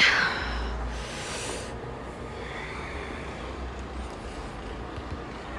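Wind on the microphone: a steady low rumble, with a louder rushing sound in the first second and a half that slides down in pitch.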